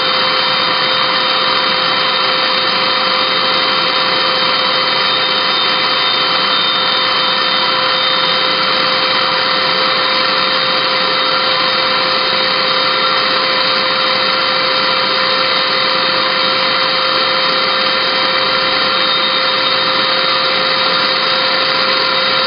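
Small Hoover vacuum cleaner's motor running steadily at full speed, a constant high whine over the rush of air.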